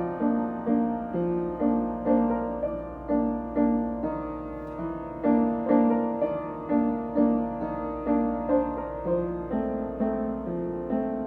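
Solo piano playing a slow, even melody with chords, notes struck about twice a second and each ringing away, over a steady low hum.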